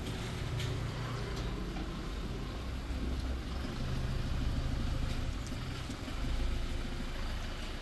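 Toyota Fortuner SUV's engine running at low revs, a steady low hum that swells a little in the middle.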